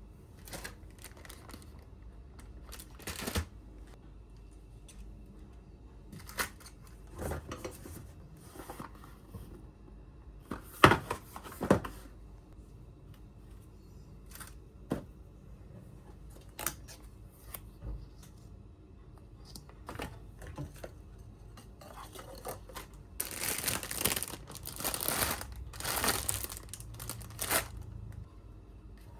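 Packaging being crinkled and torn open by hand, with scattered light knocks and rustles; a longer, louder spell of crinkling comes near the end.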